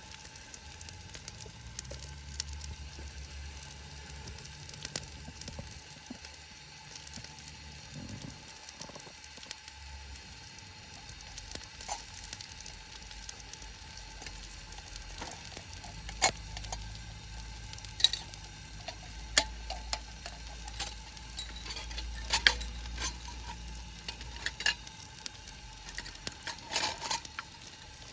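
Food sizzling in a pan, a steady hiss with scattered sharp pops and clicks that grow more frequent in the second half.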